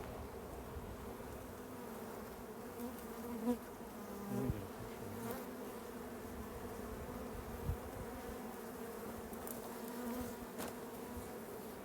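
A honeybee colony buzzing steadily, a constant even-pitched hum, as the bees are disturbed by having their comb cut out of the nest. A few faint knocks from handling.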